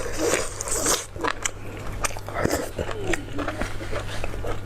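Close-miked eating: a person biting and chewing food, with a string of sharp wet mouth clicks and small crunches.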